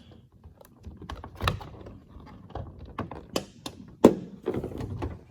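Irregular clicks and knocks, with one sharp, louder knock about four seconds in.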